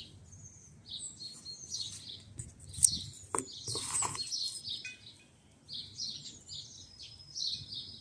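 Small songbirds chirping and twittering in short, repeated high calls. A sharp click comes a little under three seconds in, followed by a brief rustle around four seconds in.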